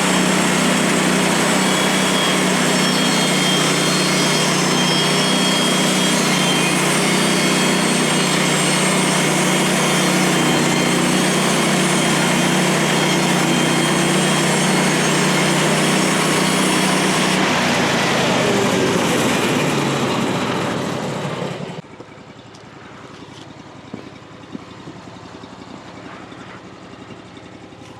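Portable bandsaw sawmill's small gasoline engine running steadily at high speed. About 17 seconds in it shuts off, its pitch falling as it spins down over a few seconds. Afterwards there is only faint background noise with a few light clicks.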